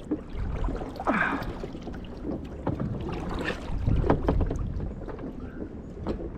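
Water splashing and lapping around a small plastic kayak, with scattered light knocks on the hull, two slightly louder splashes, and wind rumbling on the microphone.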